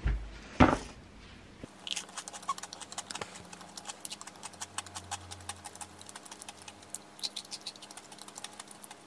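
Crunchy chewing of a frozen, chocolate-coated fried soboro bun (choco twisoboro): many quick, crisp crackles as the hardened chocolate shell and crumbly topping break between the teeth, with one louder crunch just after the start.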